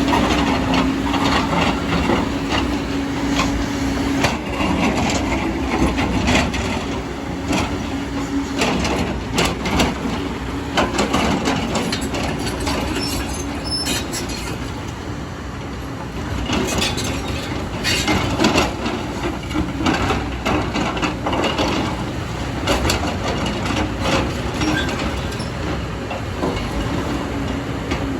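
Excavator at work: a steady diesel engine note with repeated knocks and clanks of the bucket, soil and rock.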